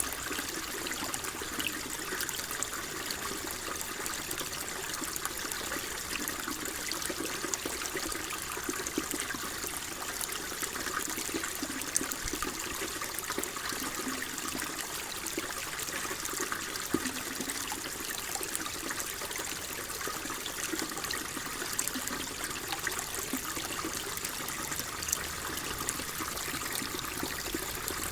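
Water flowing and trickling steadily, a constant burble with small splashes and drips.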